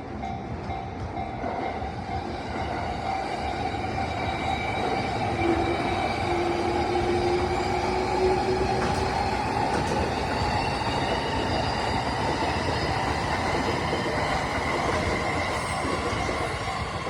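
A JR East commuter electric train runs through a level crossing with steady rail noise from its wheels, and a brief whine about five seconds in. The crossing's warning bell keeps ringing in even pulses behind it.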